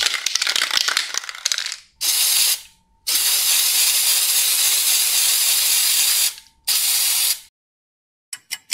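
Aerosol spray paint can: a fast rattle for about two seconds, like the mixing ball in a can being shaken, then the can sprays in three hisses, a short one, a long one of about three seconds, and another short one.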